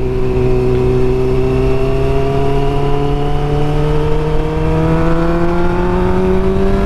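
Suzuki GSX-R600 sport bike's inline-four engine pulling steadily, its pitch rising slowly and evenly as the bike gains speed, with wind noise buffeting the microphone.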